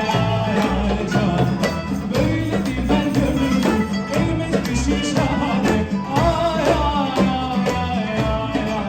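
Live band playing an upbeat Turkish folk-pop tune, with a steady drum beat and a lead melody that bends and slides in pitch.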